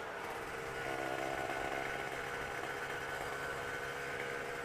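Motorcycle engine running while riding, its note shifting slightly in pitch early on and then holding fairly steady.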